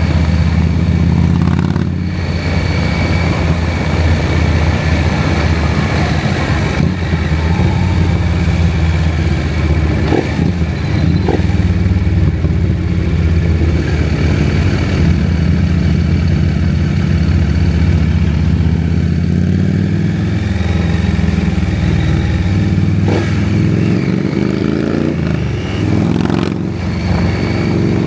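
KTM 790 Adventure's parallel-twin engine running steadily under way, with the note easing off briefly about two seconds in and again near the end.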